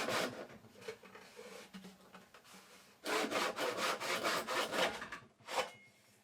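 Hand saw cutting through the last of a wooden box end, back-and-forth strokes through the wood. The strokes are light at first, then a quick, steady run starts about three seconds in and stops near the end as the cut goes through.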